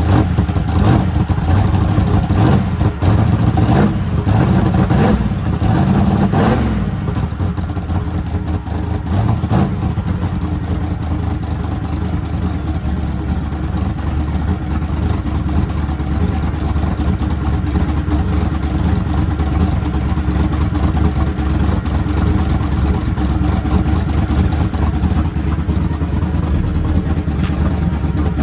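Twin-turbo small-block Chevy V8 running on its first fire-up, blipped with several uneven revs through the first seven seconds or so, then settling into a steady idle.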